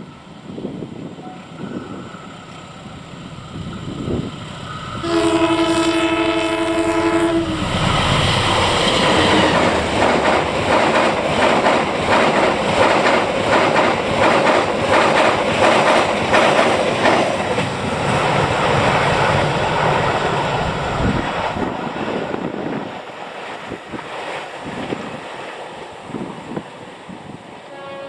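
A train sounds a multi-tone horn for about two and a half seconds, then passes close at speed, its wheels clacking over the rail joints. The passing noise fades away after about fifteen seconds, and a short horn sounds again at the very end.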